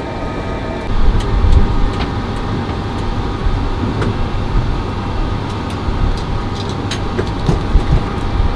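Steady low rumble of an E-3 Sentry's cabin noise, with scattered light clicks and a faint steady tone above it.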